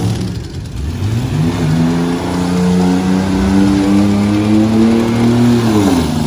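Full-size truck engine revving up about a second in and held at high revs for several seconds, then dropping off just before the end.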